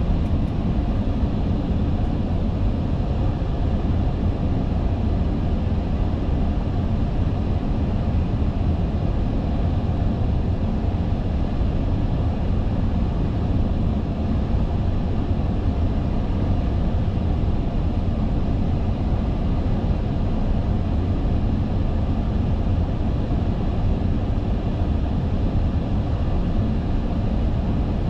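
Steady flight-deck noise of an Airbus A380 on approach with flaps 2 set: an even rush of airflow over the cockpit with a low rumble, unchanging throughout.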